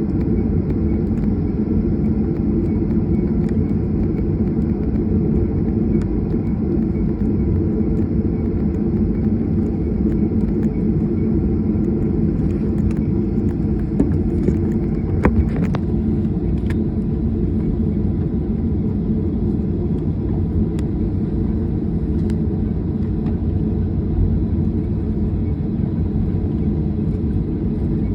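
Steady low rumble of an airliner's jet engines and airflow heard inside the passenger cabin, with a few light rattles about halfway through.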